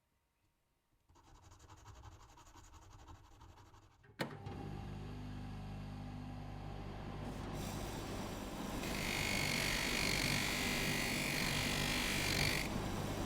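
Small electric polishing motor switched on with a click and running steadily. For about four seconds near the end a higher hiss joins it as the work is held against the polishing wheel.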